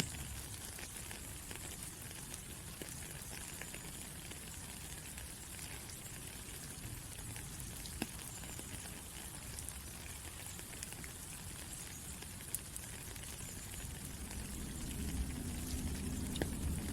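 Steady rain falling, a continuous hiss with scattered sharp drop ticks. A low rumble builds in underneath near the end.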